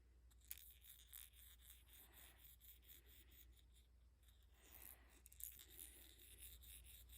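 Near silence with faint clicks and light rubbing, from a small plastic toy being handled.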